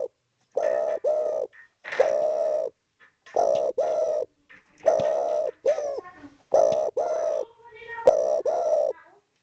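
Spotted dove (derkuku) cooing over and over, about six phrases, each a second long and broken into two or three quick parts, with short pauses between. It is calling persistently, the call keepers use to draw a rival to answer.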